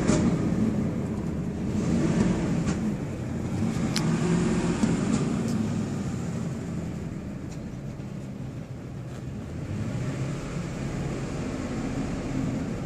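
2005 Ford F-150's 5.4-litre Triton V8 being revved while parked: engine speed swells and falls back a few times in the first seconds, then settles lower toward idle about halfway through.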